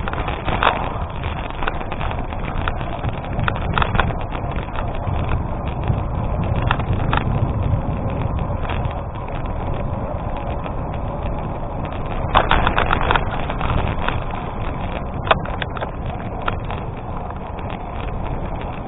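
Bicycle tyres rolling over a gravel road on a climb: a steady crunching rumble with scattered clicks and rattles, and a denser run of clicks about twelve seconds in.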